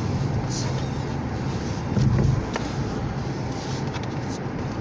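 Steady low motor-vehicle rumble with road noise, swelling louder briefly about two seconds in.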